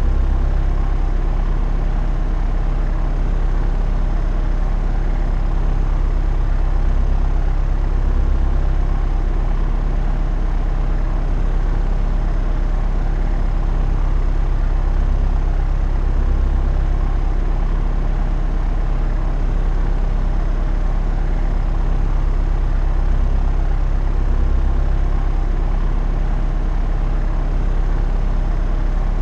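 Propeller aircraft in flight: a steady, unchanging low drone of engine and propeller, with an even hum and no change in pitch or level.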